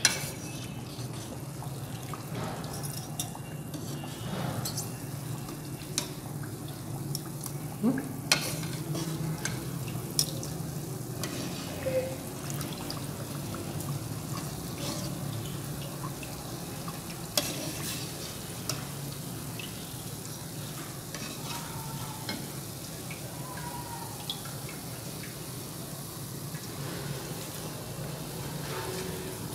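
Meethi tikiya (sweet semolina-flour patties) frying in ghee in a metal kadai on a low flame: a gentle, steady sizzle. Scattered short clicks and scrapes come from a metal slotted spoon and wire skimmer against the pan as the patties are turned and lifted out.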